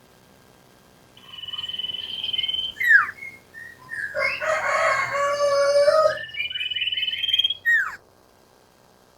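Common iora (sirtu) singing: a quick trill followed by a sharply falling whistle, twice, with a louder, harsher call between the two phrases.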